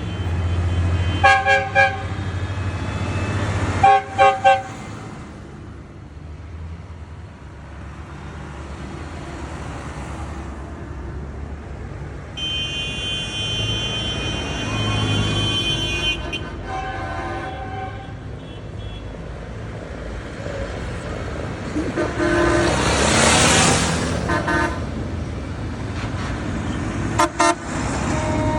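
Truck horns sounding in short double toots several times over a steady low engine rumble, with one longer, many-toned horn blast near the middle. A loud burst of hiss comes about two thirds of the way through.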